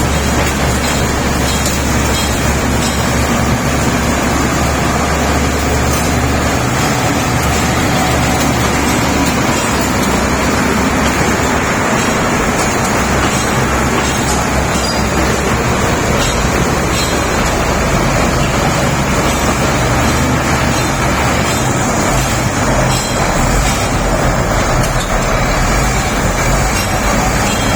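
Shantui SD32 bulldozer's diesel engine running loudly, its low drone shifting in pitch a couple of times.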